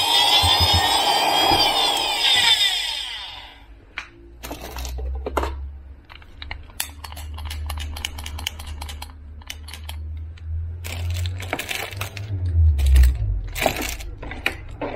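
Rubbing noise for about three seconds, then a run of short clicks and knocks, like small plastic parts being handled and set down.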